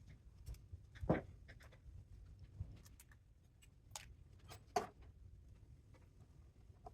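Sparse clicks and knocks of tools and metal parts being handled while a spot welder is taken apart, with two louder knocks, about a second in and near five seconds in.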